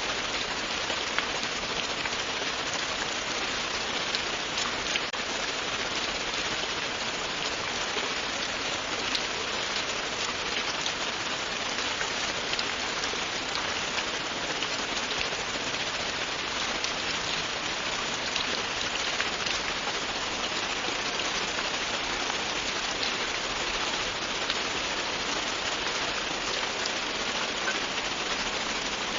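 Steady, continuous rain: a dense even hiss of many drops falling on a surface, with faint individual drop ticks.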